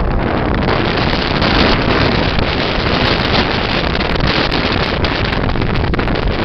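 Gale-force wind blowing hard over the microphone: a loud, steady rush of noise with no let-up.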